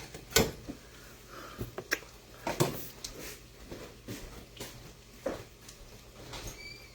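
A series of irregular sharp clicks and knocks, about eight spread over several seconds, with the loudest near the start and about two and a half seconds in.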